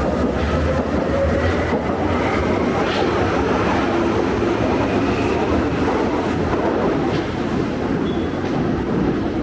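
Berlin U-Bahn train moving along the station platform: a steady rumble of wheels on rail with a faint rising whine from its electric motors, easing slightly near the end.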